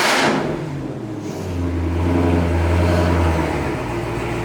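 Car engine running with a loud, deep exhaust drone. It dips sharply just after the start, swells again about a second and a half in, then eases back to a steadier, lower note near the end.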